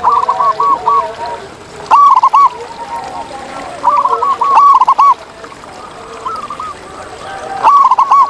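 Zebra doves (perkutut) cooing: a loud phrase of quick, arching coos about every two seconds, with softer coos from other doves underneath.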